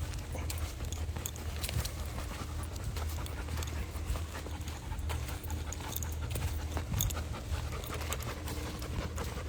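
Belgian Malinois panting steadily while walking, with irregular footsteps on the trail.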